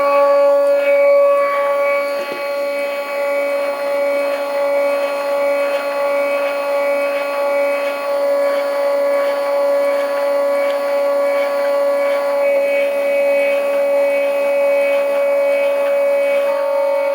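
Stepper motors of a homemade CNC hot-wire foam cutter whining steadily as they drive threaded rods, a chord of steady tones with faint regular ticking. The tones shift slightly twice in the second half.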